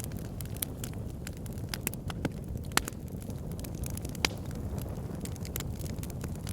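Fire pit burning: a steady low rush of flame with frequent sharp crackles and pops, two of them louder, a little under three and just over four seconds in.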